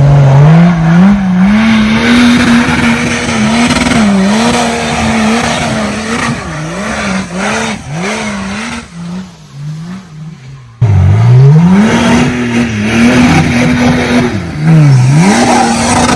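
Off-road vehicle engine revving hard, its pitch held high with repeated quick dips and rises as the throttle is worked. About eleven seconds in the sound cuts off abruptly, and the engine comes back low and climbs again to high revs.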